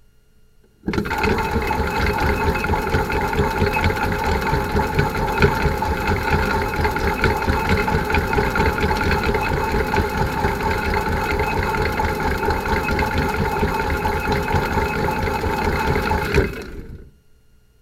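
Small electric motor of a toy washing machine switching on abruptly and running with a steady whirr and hum for about fifteen seconds, then winding down and stopping near the end.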